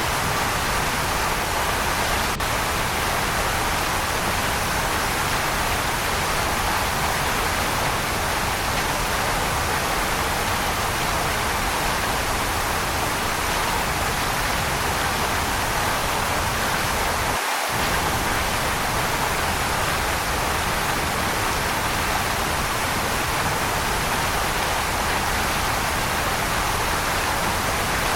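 Waterfall, a steady even rush of falling water; the low rumble drops out for an instant about two-thirds of the way through.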